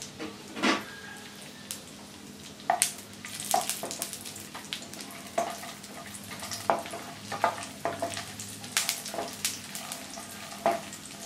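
Raisins, cashews and almonds sizzling in hot ghee in a nonstick pan, with a spatula scraping and tapping against the pan as they are stirred, the stirring starting about three seconds in.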